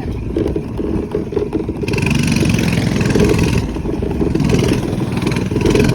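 Minibike's small engine running while being ridden, a steady rapid pulsing with the level rising and falling a little.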